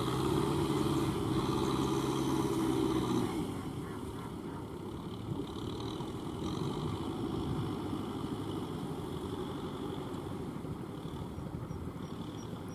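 Kubota M6040SU tractor's diesel engine running steadily while tilling a wet paddy field. It gets quieter about three and a half seconds in and then runs on at that lower level.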